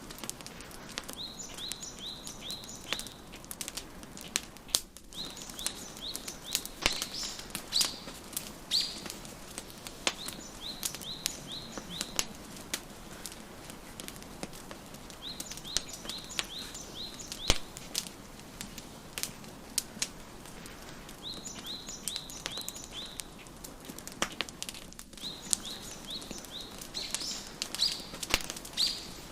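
Wood fire crackling with irregular sharp pops over a soft hiss. A songbird sings several short bouts of quick, high, repeated chirps, each bout lasting a second or two.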